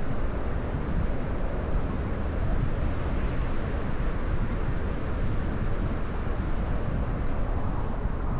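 Steady driving noise of a car at expressway speed on a rain-wet road: a continuous low rumble with tyre hiss from the wet pavement.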